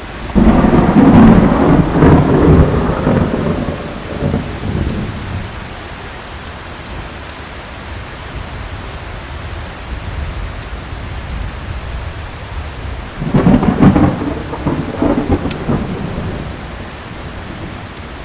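Heavy rain falling steadily, with two rolls of thunder: one breaks just after the start and rumbles away over about five seconds, and a second comes about thirteen seconds in and rolls for about three seconds.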